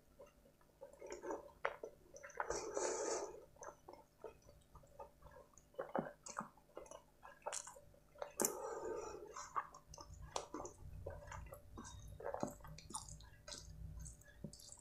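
Close-miked chewing of a mouthful of rice and chicken curry: wet, squishy mouth sounds with irregular small clicks. Near the end, fingers squish and mix rice and curry on a steel plate.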